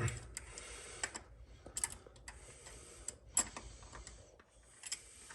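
Scattered light clicks and taps of hand tools and small metal parts being handled in an engine bay, irregular and a second or so apart.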